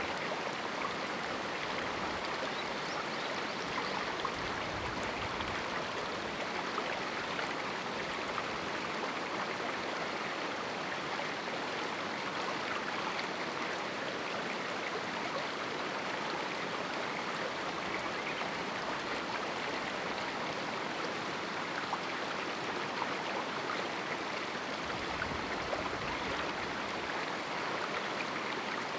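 A small canyon river flowing steadily over rocks, a continuous rushing of water with fine splashing and gurgling.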